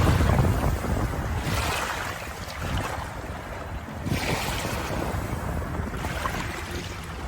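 Ocean waves washing in, the rush of water swelling and fading again every three to four seconds.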